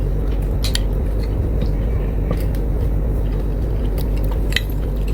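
A few light, sharp clicks of a spoon against a ceramic bowl, scattered over a steady low rumble.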